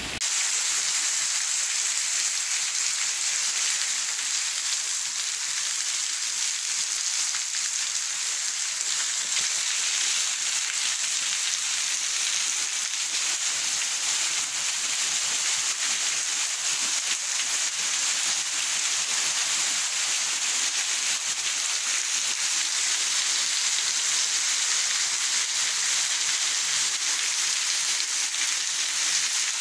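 Rain falling steadily: an even, unbroken hiss with no single drops or gusts standing out.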